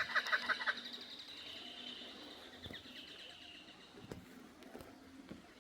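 Two kookaburras laughing: a fast run of loud, chattering hoots that breaks off about a second in, then fainter trailing calls that die away.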